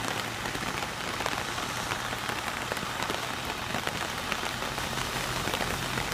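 Steady rain pattering, with many small ticks of drops, growing a little louder near the end.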